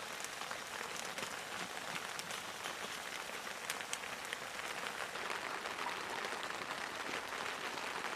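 Steady rain falling, with many separate drops ticking against a surface.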